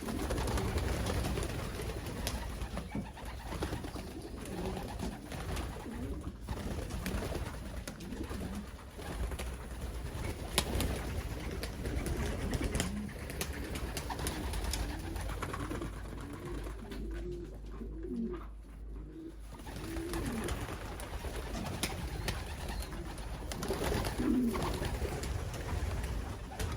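Young racing pigeons cooing, many short low coos overlapping one another over a steady low rumble, with a few sharp clicks.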